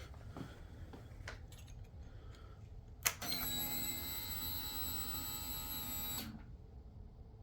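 A click, then about three seconds of a steady electrical buzz that cuts off suddenly: the 2005 Suzuki SV650's starter circuit being engaged on a cold lithium battery that cannot turn the engine over. No cranking rhythm and no engine start are heard.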